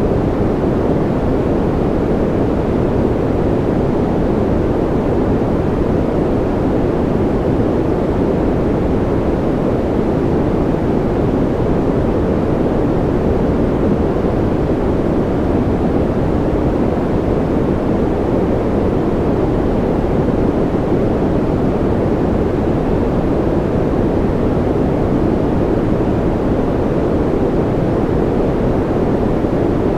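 Steady generated sleep noise, sold as white noise, that never changes. Most of its weight sits low, so it comes across as a deep, even rush with little high hiss.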